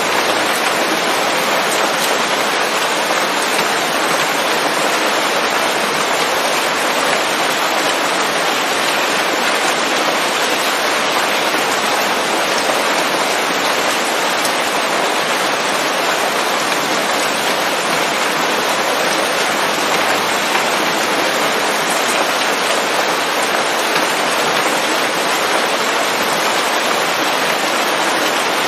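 Steady rain falling on leaves, a dense even hiss without thunder or any separate sounds.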